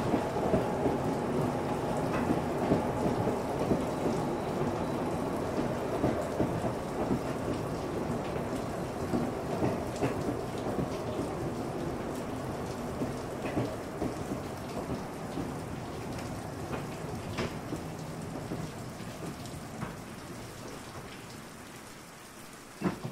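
Narrow-gauge railway carriages rolling past, their wheels rumbling and clicking on the rails, slowly growing quieter. A single sharp knock near the end.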